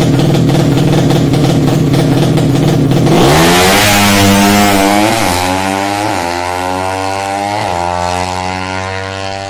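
200cc drag-bike motorcycle engine idling fast, then revved up sharply about three seconds in. The revs then slowly fall back, with a few short throttle blips on the way down.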